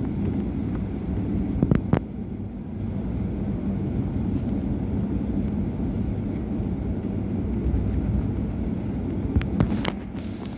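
Steady low rumble inside the cabin of a Boeing 757-200 on the ground before takeoff, with a few short knocks and rattles: a pair about two seconds in and another pair near the end.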